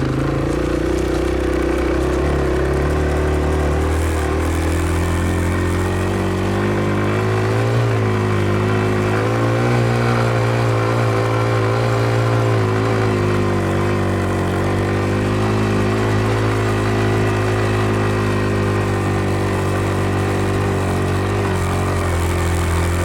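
Dirt bike engine running steadily under load on a steep uphill climb, its pitch wavering up and down a little midway as the throttle changes.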